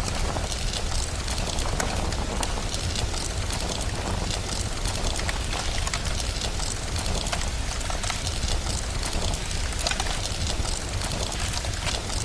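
Rain-and-fireplace ambience: a steady hiss of rain over a constant low rumble, with frequent small crackles of a wood fire scattered through it.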